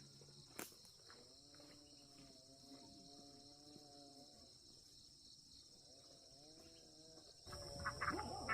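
Faint outdoor insect chirring, steady and high. A long, even, pitched call sounds through the middle, and louder rustling and clicks come in near the end.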